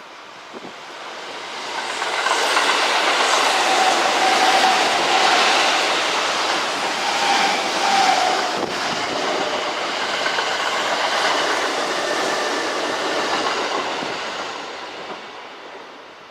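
Kintetsu electric train running past at the station, swelling in over the first two seconds, staying loud for about twelve seconds and fading away near the end.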